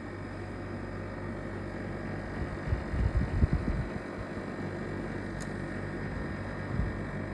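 Corona CWH-A1824R window air conditioner running with a steady low compressor hum, with a cluster of low knocks about halfway through and a single short one near the end. The owner takes this for abnormal compressor noise: the whole unit vibrates and rattles, which the repair service called within the normal range.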